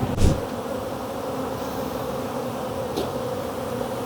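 Honeybees buzzing around their hive: a steady, even drone of many bees in flight. A brief thump sounds just after the start.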